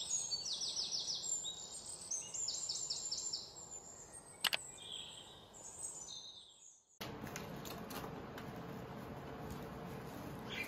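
Small songbirds chirping, with two quick runs of high, rapid notes in the first few seconds. A single sharp knock comes about four and a half seconds in, and light taps follow after an abrupt cut: birds hopping onto and about on the camera.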